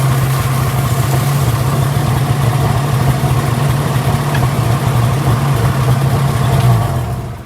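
1968 Ford Bronco engine running steadily at low revs, then stopping near the end.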